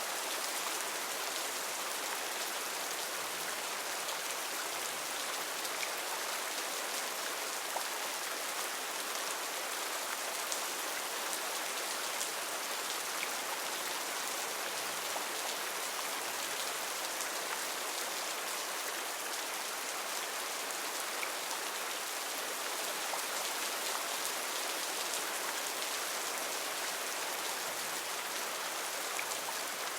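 Heavy rain falling steadily on foliage, a dense, even hiss with scattered drop ticks.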